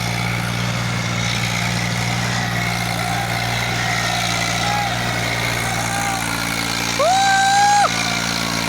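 Diesel tractor engine running steadily at low revs, with a loud horn blast lasting almost a second about seven seconds in.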